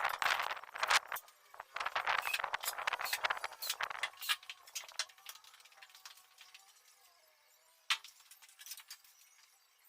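Small metal pieces clinking and rattling, handled rapidly for about four seconds, then quieter, with a single sharp click near the end.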